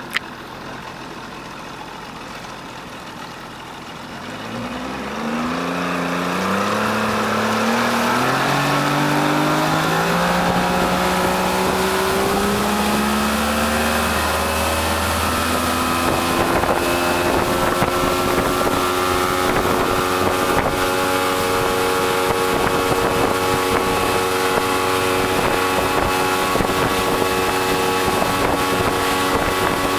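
Motorboat engine starting from low revs and climbing in pitch in several stepped rises as it accelerates, then running steady at speed, with wind buffeting the microphone.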